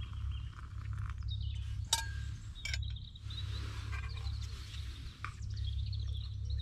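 Birds chirping and singing over a steady low rumble, with a couple of sharp clicks about two seconds in.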